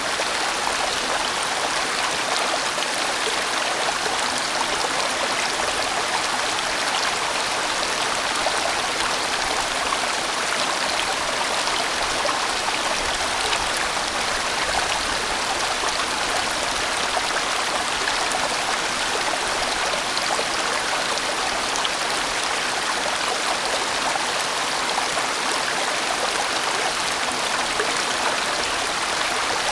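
A large mountain stream rushing and splashing over rocks, a steady, full sound of flowing water.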